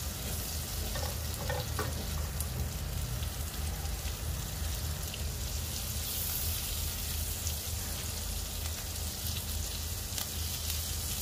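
Minced garlic and grated ginger sizzling steadily in melted butter and oil in a non-stick pan, stirred with a silicone spatula, with a few faint pops.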